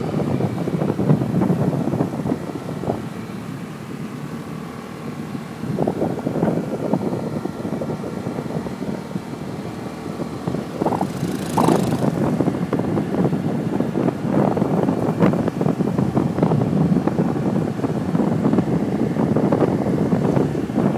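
Riding a motorbike: a gusty rumble of wind buffeting the microphone over the bike's running engine, with a brief louder hiss about eleven seconds in.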